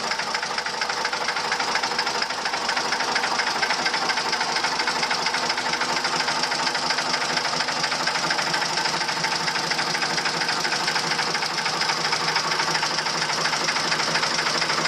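Vintage Lister JP3 three-cylinder diesel engine running steadily, with a rapid, even mechanical clatter.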